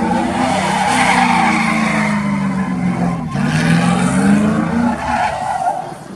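A truck engine held at high, wavering revs while its tyres squeal and skid, as in a burnout. The revs dip briefly about three seconds in and fall away near the end.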